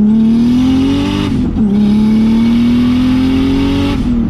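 Turbocharged BMW M50 inline-six in an E30, heard from inside the cabin, pulling under acceleration with its note rising. It drops and resets as the car is upshifted about a second and a half in, then climbs again until another shift near the end.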